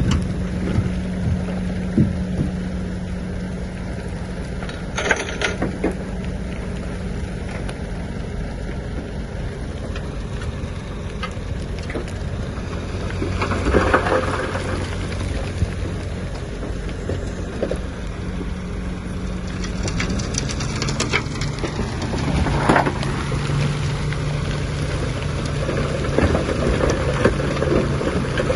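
Bulldozer's diesel engine running under load, with track clatter and the crunch of soil and stone being pushed. Bursts of crunching come now and then, and the engine note steps lower about two-thirds of the way through.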